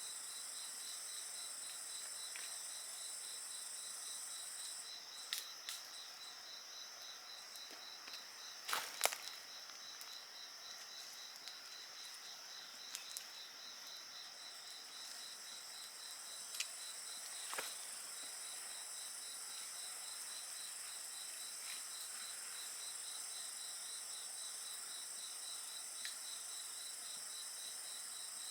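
Insects chirping in steady, high-pitched trills, one with an even, rapid pulse; a higher layer of the chorus drops out about five seconds in and returns around fifteen seconds. A wood fire crackles now and then with a few sharp pops, the loudest about nine seconds in and another pair near eighteen seconds.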